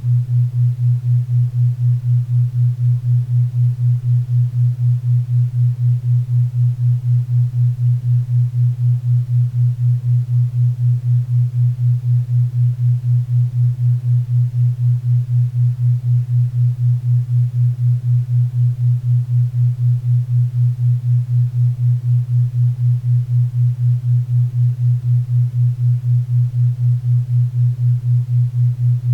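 A 4 Hz theta-wave tone: a low steady hum pulsing evenly about four times a second, over a faint bed of pink and brown noise.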